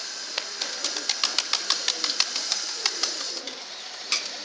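Domestic pigeons in a loft: a quick irregular run of about a dozen sharp claps or clicks over the first three seconds, with one more near the end, over a steady hiss.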